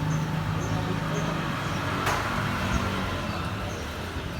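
A steady low mechanical hum, like a motor or engine running, fading slightly toward the end, with a single sharp click about two seconds in.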